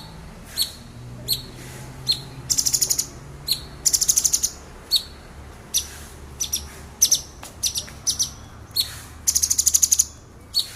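Male orange-bellied leafbird singing: short, sharp, high single notes, interrupted three times by rapid-fire bursts of fast repeated notes lasting under a second each (the 'tembakan' that keepers prize).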